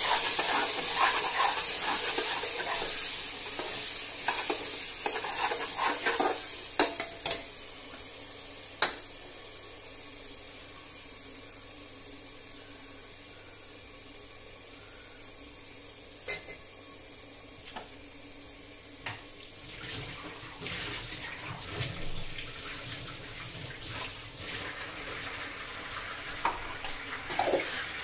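Chicken and spice masala sizzling as they fry in an open aluminium pressure cooker, stirred and scraped with a metal spatula that clicks against the pot a few times. The sizzle starts strong and dies down over the first several seconds, then picks up again with more stirring in the last third.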